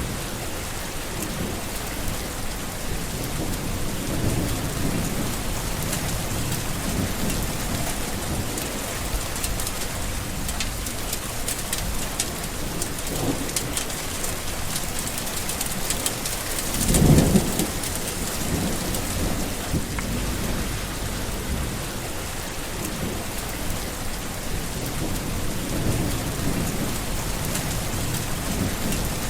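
Steady rain with low rolling thunder rumbling now and then; one louder thunderclap comes a little past halfway.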